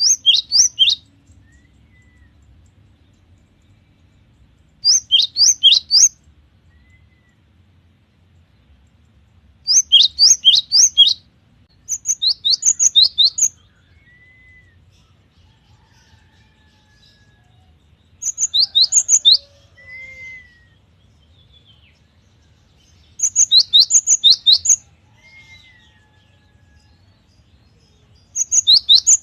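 Gelatik batu (cinereous tit) singing in repeated bursts of three to six rapid, high, falling notes, a burst every few seconds. Soft short whistles come in between.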